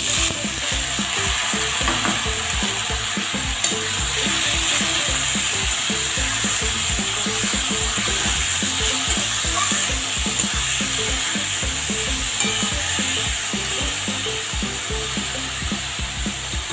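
Chopped, boiled banana flower frying in hot oil in a metal wok (kadai), with a steady sizzle throughout. A flat metal spatula stirs and scrapes it through the pan with frequent light knocks.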